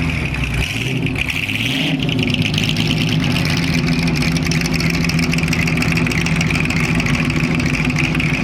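A car engine running at a steady speed, holding an even pitch.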